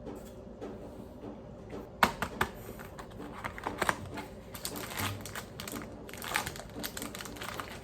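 Crinkling and rustling with a run of sharp clicks and clatter, starting suddenly about two seconds in, over faint background music.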